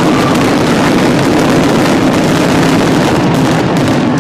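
Fireworks finale barrage: many shells bursting in quick succession, their blasts merging into one loud, steady rumble.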